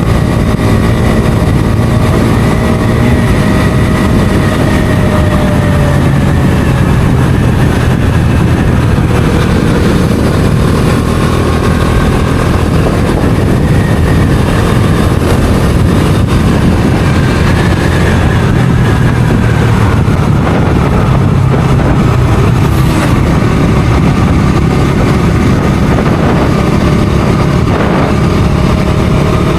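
Bajaj Dominar 250's single-cylinder engine running steadily while riding, its pitch drifting slowly up and down with the throttle.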